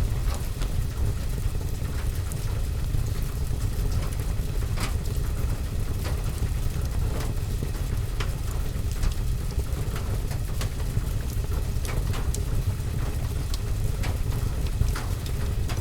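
Fireplace and rain ambience: a steady low rumble of rain with scattered sharp crackles and ticks from the fire and drops on the window.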